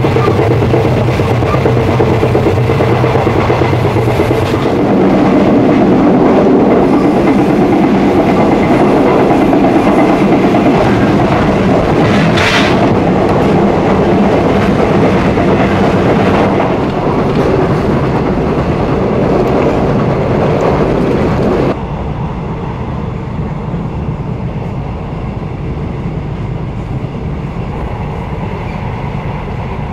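Passenger train running, heard from inside a coach: a steady rumble of wheels on the rails. The sound drops abruptly about 22 seconds in and stays lower.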